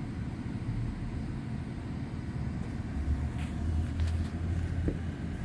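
Low, steady engine rumble that grows stronger about three seconds in.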